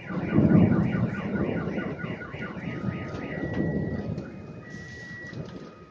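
Rolling thunder rumbling loudest about half a second in, then fading. Over it a car alarm sounds, with a rapid warble that switches about three seconds in to steady alternating tones.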